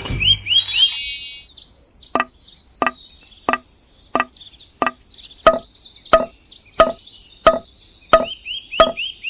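Evenly spaced knocking, about three knocks every two seconds, starting a couple of seconds in, with high, rapid chirping above it.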